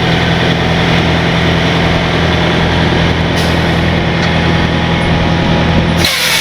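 Heavy diesel truck engine running steadily at a low idle, with a sudden loud hiss of air near the end.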